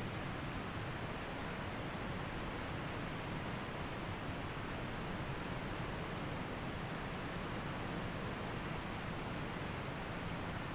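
Waterfall and creek water rushing, a steady, even roar of falling and flowing water.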